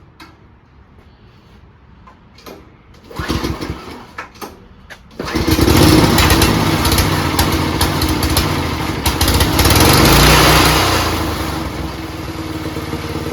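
Small lawn-tractor engine being started: a few short sputters and knocks, then it catches about five seconds in and runs loud and steady. It swells louder around the middle and settles to a lower, steadier run near the end.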